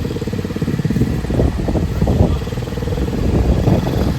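Mini bike's small engine running steadily, with a fast even firing pulse.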